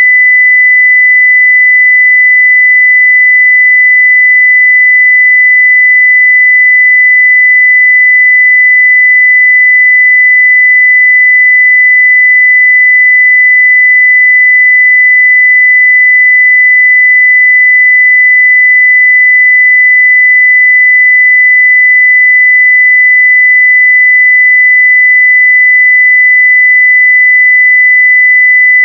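Continuous 2 kHz sine-wave test tone at 0 dB full scale, a single pure high-pitched tone, steady and unchanging.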